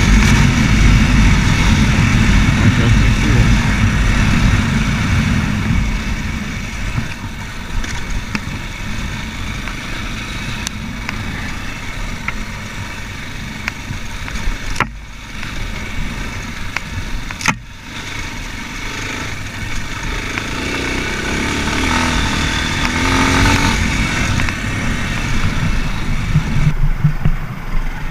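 Racer Panther 300 enduro motorcycle engine running under way, loudest at first and easing off after a few seconds, with two sharp clicks about midway.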